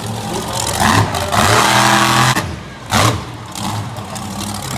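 Monster truck engine revving hard in two sharp bursts, about a second in and again near three seconds, holding high revs between them.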